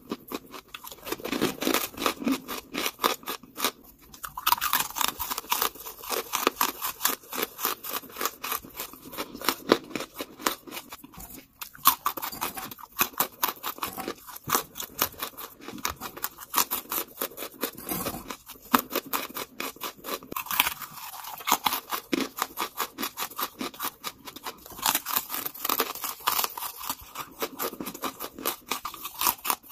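Close-miked chewing of charcoal chunks: a dense run of dry, crackling crunches, many a second, with a few short breaks.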